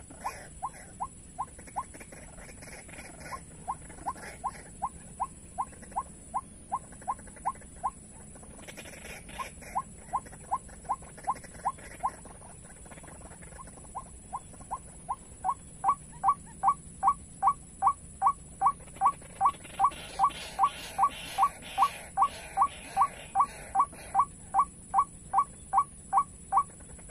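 White-breasted waterhen calls: a long run of short rising notes, about three a second, with a few short pauses, becoming much louder about halfway through. A steady high hiss runs underneath.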